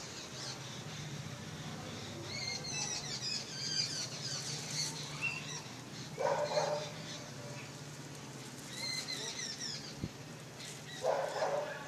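Small birds chirping in quick high-pitched phrases, with two louder, lower calls about six and eleven seconds in, over a steady low hum.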